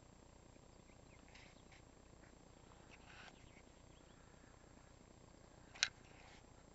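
Near silence with a few faint, short high chirps of birds, and one sharp click near the end.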